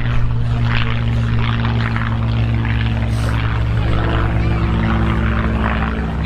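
Piston-engined propeller aircraft in flight, its engine holding a steady drone.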